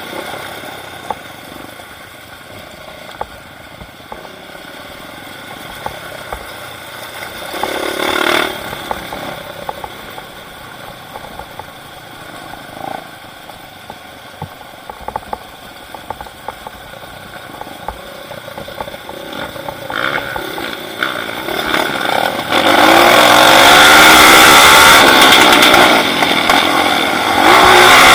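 Off-road trail motorcycle engine running at moderate level. From about three-quarters of the way through it revs hard and loud, its pitch rising and falling.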